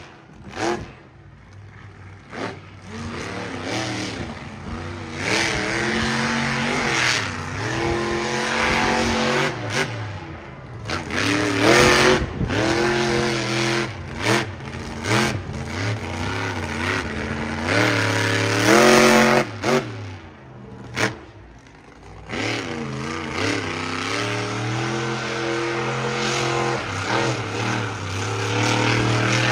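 Monster truck engine revving hard during a freestyle run, its pitch climbing and falling again and again as the throttle is opened and let off. The loudest blasts come about 11 and 18 seconds in.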